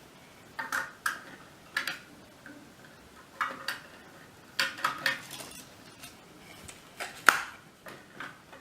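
Small plastic Lego pieces clicking and clinking together as cargo is loaded back onto a toy train, about a dozen light, sharp clicks at uneven intervals, the loudest one a little before the end.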